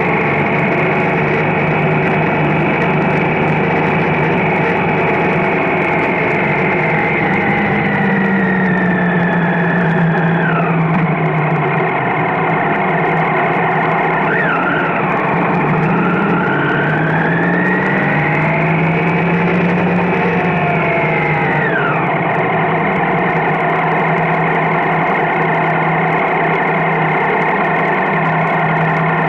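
Triumph Street Triple motorcycle's inline three-cylinder engine running under way. Its pitch falls as it slows about ten seconds in, dips again, rises under acceleration, then drops back around twenty-two seconds and holds steady.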